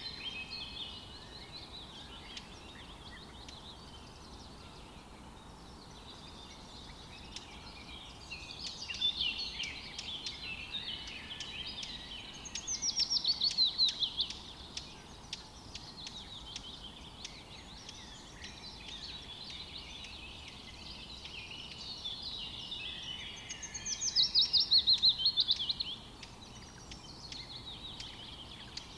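Songbirds singing and chirping over a faint steady hiss, with two louder songs of rapid notes falling in pitch, one about 13 seconds in and another near the end.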